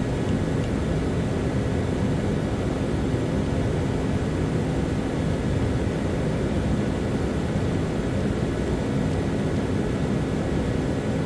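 Steady low droning background noise with a faint constant hum, unchanged throughout, as from a fan or motor running.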